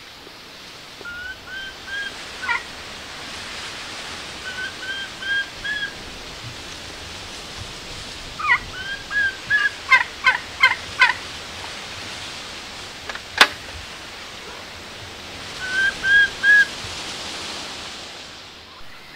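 A bird calling: short rising call notes in groups of three or four, repeated several times, with a few sharp falling notes mixed in, over a steady background hiss. A single sharp click about 13 seconds in is the loudest sound.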